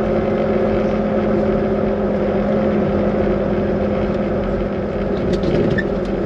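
Steady in-cab drone of a Volvo VNL 860 semi truck's diesel engine, with a few light clicks near the end.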